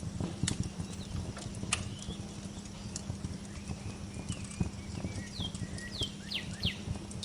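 Wood fire crackling in a fireplace, with irregular sharp pops and snaps over a low rumble. A small bird gives a few short chirps that fall in pitch, bunched about five to six and a half seconds in.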